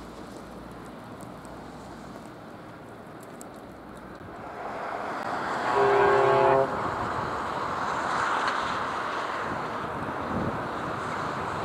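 VL82M electric locomotive at the head of a freight train approaching, its rumble building about four seconds in, then sounding one horn blast of about a second. The heavy rumble of the locomotive and wagons rolling past carries on after the horn.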